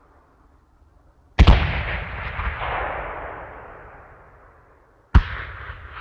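Two sharp explosion blasts about four seconds apart, each followed by a long crackling, rumbling tail that slowly fades.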